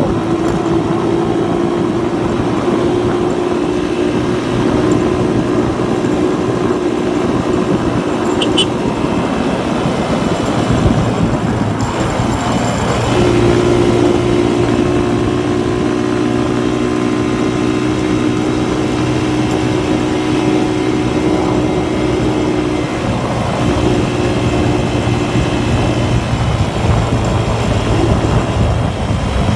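Suzuki Raider 150 carburetted motorcycle's single-cylinder four-stroke engine running under way at speed. Its steady note fades for a few seconds about a third of the way through and briefly again about three quarters through, then returns.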